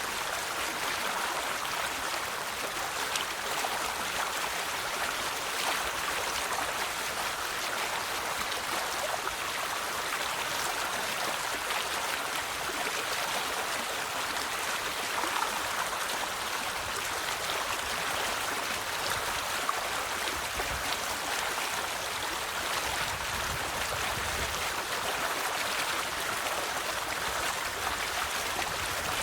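River water flowing and babbling over stones in a steady, even rush.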